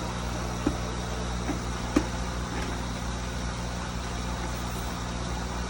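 Steady mechanical hum of a running motor, with a few light knocks in the first two seconds.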